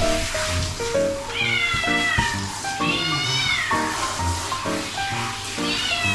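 Straight-eared Scottish cat meowing three times while being bathed: a falling meow, a longer one that rises then falls, and a short one near the end.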